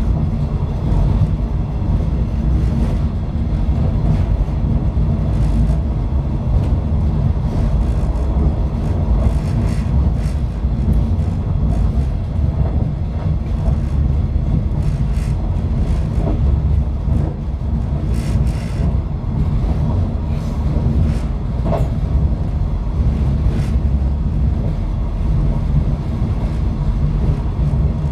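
485 series electric train running along the line, heard from inside the rear cab: a steady low rumble of wheels and running gear, with a few sharp clicks.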